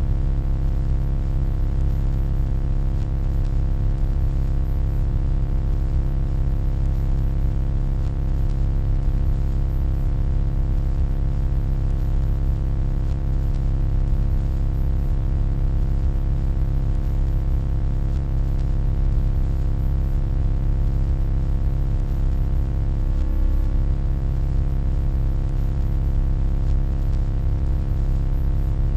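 Steady, deep electronic hum made of many layered steady tones, with the weight in the low end. It wavers briefly late on.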